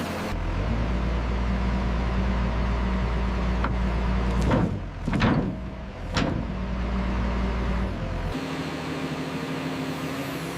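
Diesel engine of a heavy logging machine running steadily, with a few brief sharp sounds around the middle; the sound changes abruptly about eight seconds in.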